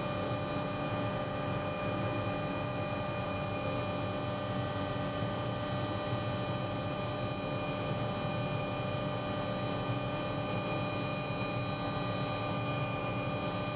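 Helicopter running steadily, heard from on board: an even drone with a stack of steady whining tones that hold pitch throughout.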